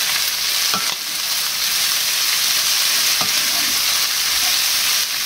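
A black bean, smoked tofu and vegetable filling sizzling steadily in a hot frying pan while it is stirred with a wooden spatula, with a faint scrape or tap of the spatula against the pan now and then.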